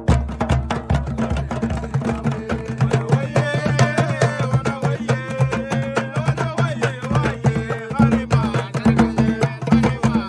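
Berber singing with hand drums: a steady beat of drum strokes, joined about three seconds in by voices singing a wavering melody.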